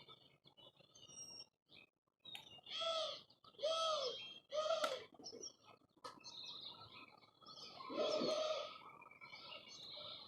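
Small wild birds at a feeder chirping continuously, with three loud, harsh arched calls about three to five seconds in and another near eight seconds.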